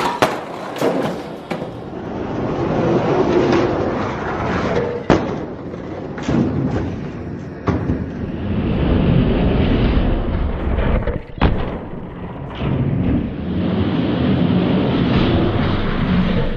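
Die-cast Hot Wheels monster trucks rolling down a plastic toy race track: a steady rolling rumble with sharp clacks and knocks scattered through.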